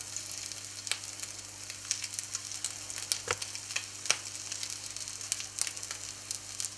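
Breadcrumbed plaice goujons sizzling as they shallow-fry in a little hot oil in a non-stick frying pan: a steady hiss dotted with small crackles, and a few sharper pops.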